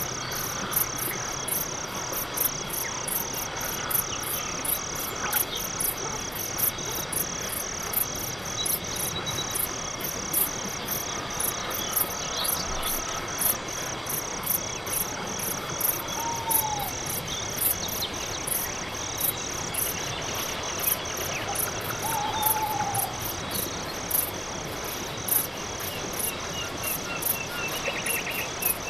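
Night-time crickets chirping in a steady, even rhythm of about two high-pitched pulses a second, with two short, lower calls from another animal about halfway through and again a few seconds later.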